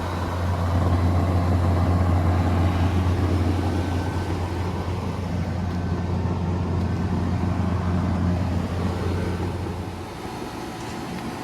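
Outdoor air-conditioner condensing units, a 1980 Carrier Compact and a 2011 Payne, running: a steady low compressor hum over the rush of the condenser fans. Near the end the hum drops away, leaving a quieter rush.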